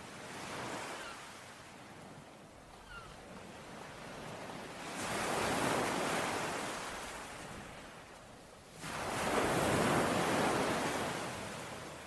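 Ocean waves washing onto the shore: a small wave at the start, then two bigger waves, the second surging in suddenly about nine seconds in. A faint bird chirp about three seconds in.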